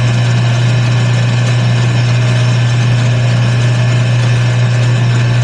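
Wood lathe running at a steady speed: a strong, even low hum with a faint higher whine over it.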